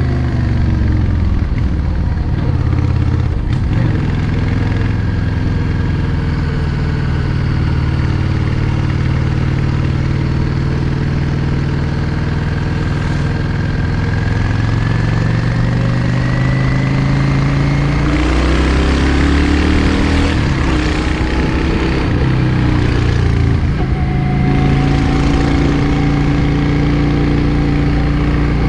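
Yamaha XVS 650 Drag Star's air-cooled V-twin engine pulling the bike along a road. Its pitch drops near the start, holds steady, then climbs as the throttle opens about two-thirds of the way through and settles at higher revs.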